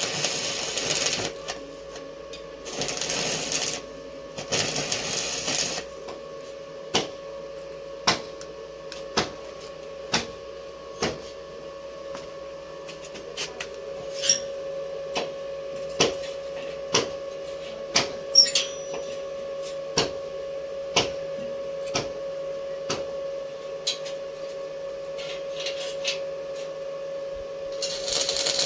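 Metalwork on a steel grill door: three short hissing bursts, then sharp metallic knocks about once a second for some twenty seconds over a steady hum, and another hissing burst near the end.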